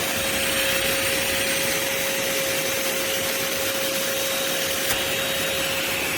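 MBYULO 600W cordless stick vacuum running at power, a steady whine over a constant rushing hiss.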